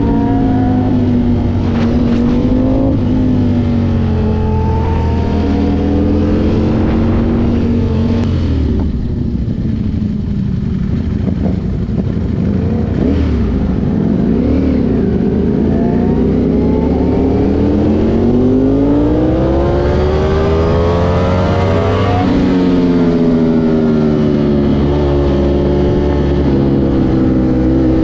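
Sportbike engine heard from the rider's seat while riding. The engine rises through the revs, drops briefly at an upshift, then falls away and runs low as the bike slows for a turn. It climbs steadily again under acceleration, drops sharply at another shift about three quarters of the way in, and then holds a steady cruising note.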